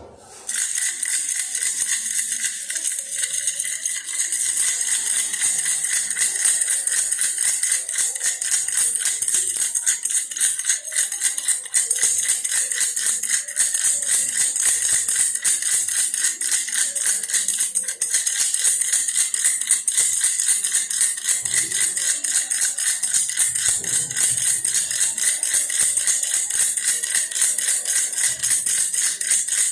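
Toy-bear baby rattle shaken continuously, a dense, fast, bright rattling that starts about half a second in and keeps an even level throughout.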